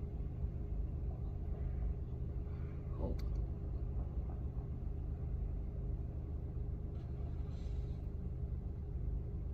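A car's engine idling steadily, heard from inside the cabin as an even low hum with a faint steady tone above it.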